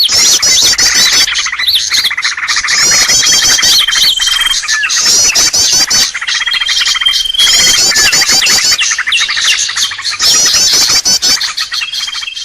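Bird-lure recording of many birds chirping and twittering rapidly and densely, with a held high whistle that comes in about three seconds in, again around six seconds, and near the end.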